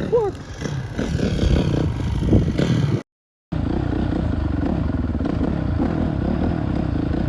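Motorcycle engine running while riding, uneven at first; the sound drops out for about half a second around three seconds in, after which the engine holds a steady note.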